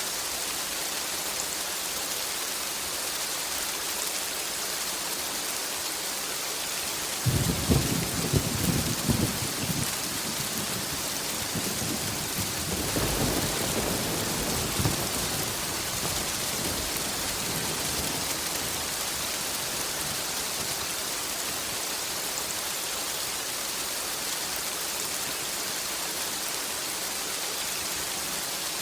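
Steady heavy rain with a thunderclap about seven seconds in, a sharp crackling crack followed by rumbling, and a second rolling rumble a few seconds later that fades back into the rain.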